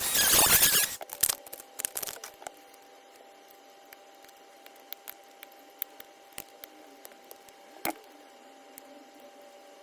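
Packaging being torn and crinkled open in a loud burst lasting about a second, with a few more crackling tears just after, then scattered small clicks and taps.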